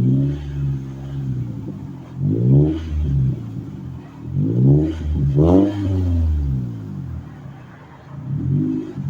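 2007 Toyota Camry's exhaust through an aftermarket DC Sports muffler: the engine is revved in about five short blips, each rising and falling in pitch, settling back to a steady idle in between.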